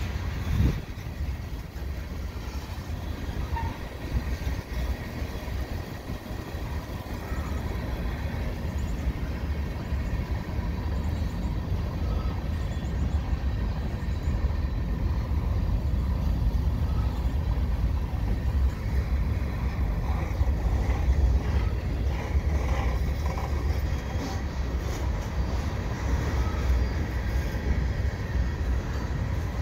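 Freight cars of a slow-moving train rolling past: a steady low rumble of steel wheels on the rails, with a sharp knock near the start and scattered faint clicks.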